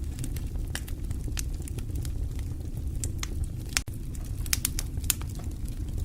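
Fire crackling: irregular sharp pops and snaps over a steady low rumble, with a brief dropout about four seconds in.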